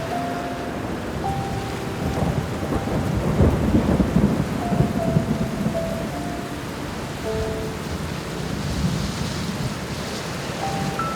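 Steady rain falling, with a low roll of thunder swelling about three to five seconds in. Slow, sparse piano notes sound softly over the rain.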